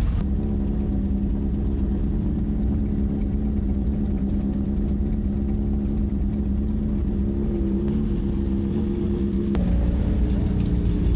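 Motorcycle engine running at a steady speed over a heavy low rumble. Its pitch shifts slightly, and the sound changes abruptly about ten seconds in.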